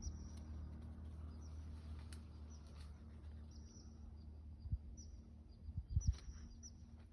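Small birds chirping: short, high chirps repeated over a steady low hum, with a few low thumps about five and six seconds in.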